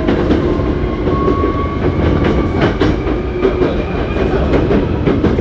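Hankyu 7300 series electric train running, heard from inside the car: a steady low rumble with wheels clicking over rail joints, and a faint thin whine that rises slightly in pitch.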